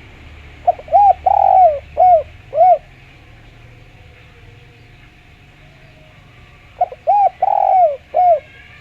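Spotted dove cooing: two phrases a few seconds apart, each of about five arched coos with one longer coo in the middle.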